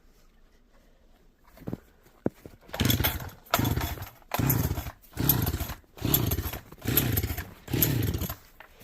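372XP-pattern two-stroke chainsaw being pull-started: from about three seconds in, some seven quick pulls of the starter cord, each a brief whir falling in pitch, without the engine catching. The saw has sat unused through a long winter.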